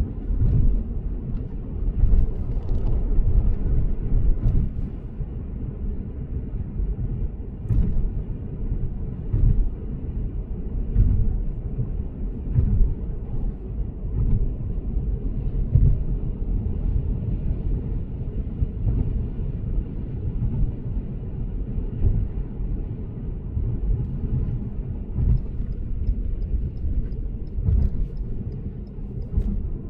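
Tyre and road rumble of a Lexus GS450h driving at expressway speed, heard as a steady low drone that swells and dips with the road surface, with a few faint ticks.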